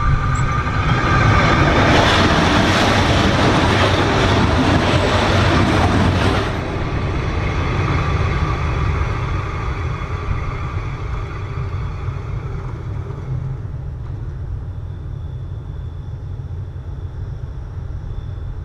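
Transnet train rumbling and rattling directly over a camera that lies between the rails. It is loudest for about six seconds, drops off abruptly, and then leaves a low rumble that fades as the train moves away.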